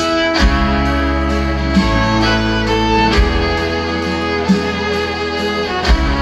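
Instrumental break of a country-rock band: a fiddle carries the melody over guitar and bass, with a low thump about every second and a half.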